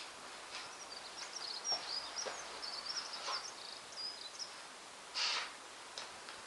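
Small birds twittering in quick high chirps for the first few seconds, with several short breathy hissing bursts, the loudest about five seconds in.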